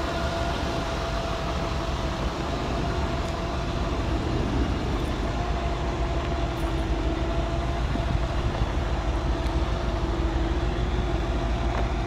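1955 Chevrolet Bel Air's engine idling steadily, a constant hum that swells slightly a few seconds in.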